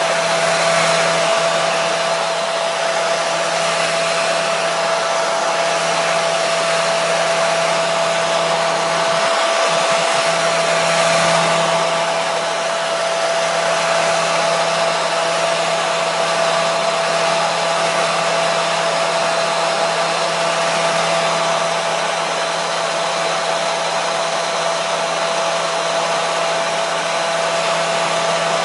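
Hair dryer running steadily: a continuous rush of blown air over a motor's steady hum.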